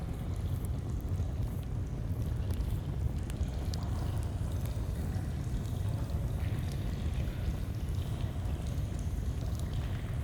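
Steady rush of a flowing stream, dense and low, with faint scattered crackles of a campfire over it.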